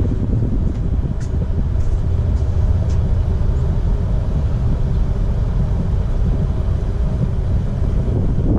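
Wind buffeting the microphone as a loud, uneven low rumble, with a few faint high chirps in the first few seconds.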